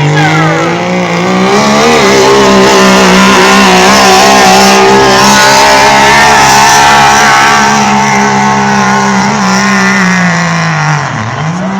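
Competition pulling vehicle's engine at full throttle during a pull. The revs climb in the first couple of seconds and hold high and steady for about eight seconds, then drop off near the end with a short blip of revs just after.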